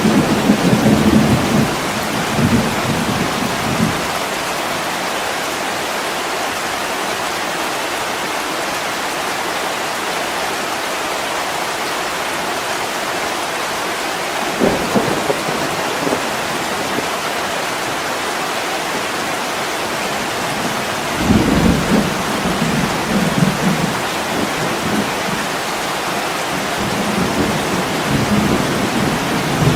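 Heavy rain pouring steadily against a window, with low rumbles swelling up four times over it.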